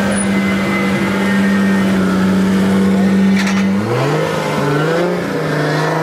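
A car engine held at steady high revs for about four seconds, then revved up and down in several quick blips.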